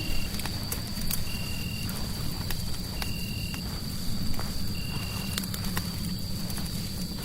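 Crackling fireplace: frequent sharp pops and crackles over a steady low rumble of fire noise. Above it, a steady high whistle runs throughout, and a short high chirp repeats about every second and a half.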